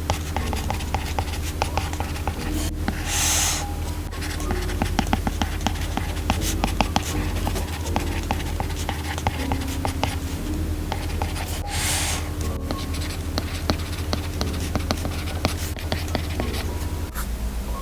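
Apple Pencil tip tapping and writing on the glass of an iPad Pro screen: a dense, irregular run of small clicks. There is a brief swish about three seconds in and another near the middle.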